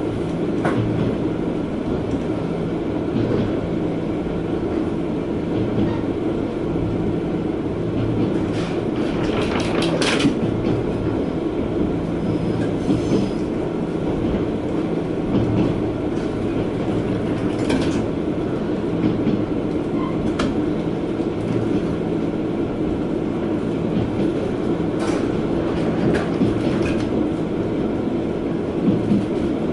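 Diesel railcar running along the line, heard from inside the carriage: a steady rumble with a low engine drone. Sharp clacks of the wheels over rail joints come as a quick run about a third of the way in and singly later.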